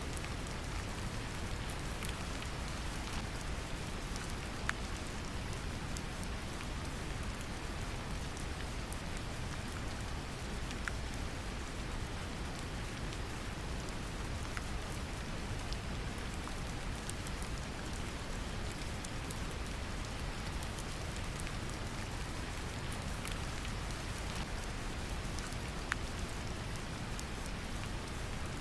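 Steady brown noise, a deep even hiss, mixed with gentle rain: a constant wash with scattered small drop ticks and a few louder single drips.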